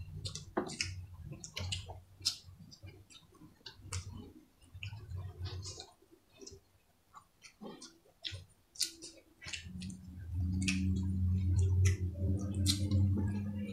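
Close-up eating sounds: wet chewing, lip smacking and many short sharp mouth clicks from people eating rice and stewed pork with their hands. A low steady hum joins in at about the last third.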